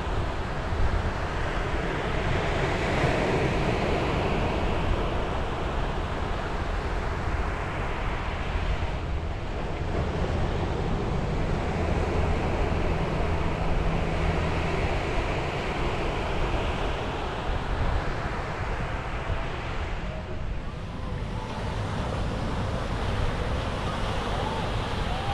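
Ocean waves breaking and washing onto a beach, surging and easing every several seconds, with wind buffeting the microphone.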